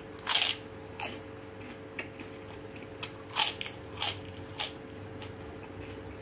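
Close-up sounds of a man eating rice and shrimp by hand: chewing with several short, wet mouth smacks, the loudest about a third of a second in and another cluster around the middle. A steady faint hum runs underneath.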